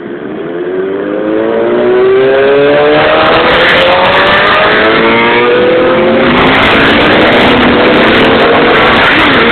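Several superbike racing motorcycle engines accelerating hard, one after another, each engine note rising in pitch and overlapping the next. The sound builds over the first two seconds and then stays loud.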